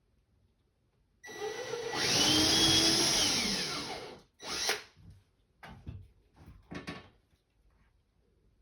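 Cordless drill running for about three seconds while drilling a pilot hole, its motor pitch rising and then falling away as the trigger is released. A short second burst and a few brief noises follow.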